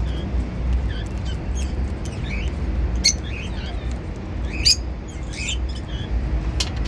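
Cockatiels chirping, with short scattered chirps and a few sharper, louder calls about three, four and a half, and six and a half seconds in, over a steady low hum.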